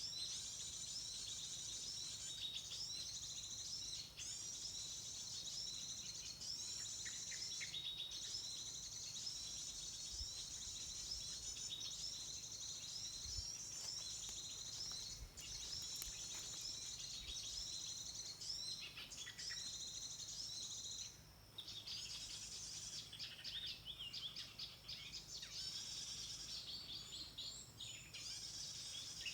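Small songbirds chirping and twittering in high-pitched, quickly repeated phrases, with a brief drop-out about two-thirds of the way through.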